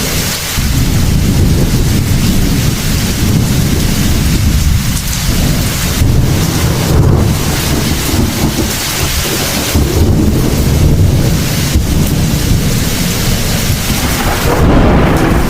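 Heavy thunderstorm: steady heavy rain with deep, continuous rumbling thunder.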